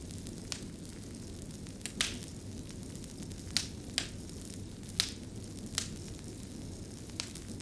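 Wood fire burning, a steady low rumble of flames with sharp, irregular pops and crackles from the burning wood, about eight in a few seconds.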